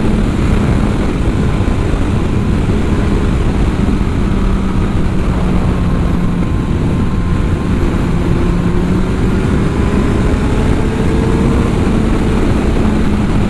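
A 2003 Yamaha FJR1300's inline-four engine running at a steady cruise under heavy wind rush. The engine note rises slightly in the second half.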